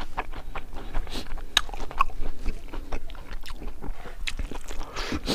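A person chewing a mouthful of crispy pork and rice close to the microphone, with many short, sharp crunches and mouth clicks scattered throughout.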